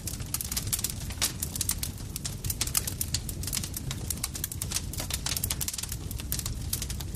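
Campfire burning with a steady low rumble and dense, irregular crackles and pops from the burning wood.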